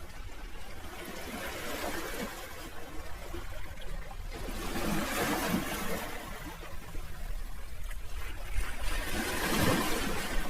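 Sea waves washing in, an even rush of water that surges twice, about halfway through and again near the end.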